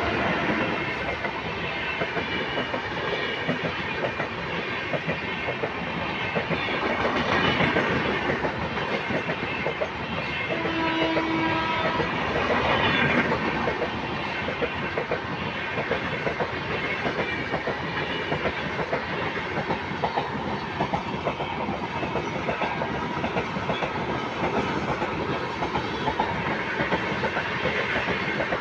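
An express train's red LHB passenger coaches passing close by at speed. The wheels clatter steadily over the rail joints, a rapid clickety-clack over the rolling rumble.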